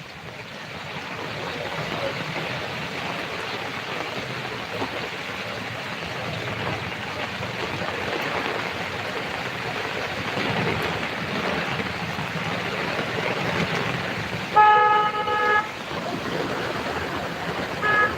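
Steady hiss of heavy rain and wet street traffic, with a vehicle horn honking once for about a second near the end and a short second toot right at the close.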